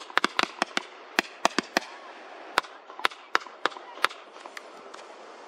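Aerial fireworks bursting overhead: a rapid, irregular string of sharp bangs, packed close together for the first couple of seconds, then thinning out and stopping after about four seconds.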